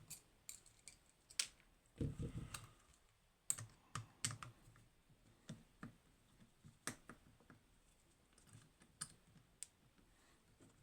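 Light, irregular clicks and taps of small hard objects being handled and set down on a desk, with a short run of heavier knocks about two seconds in.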